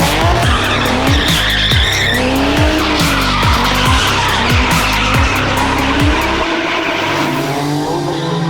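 A spinning car's engine revs hard and repeatedly while its tyres squeal and skid, with background music playing underneath.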